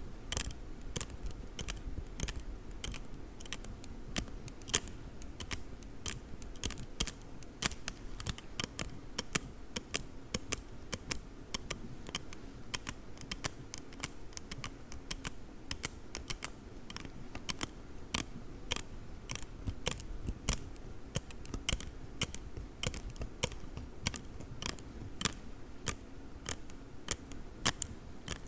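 Folding carpenter's rule being handled and tapped, making rapid, irregular sharp clicks, several a second, like typing.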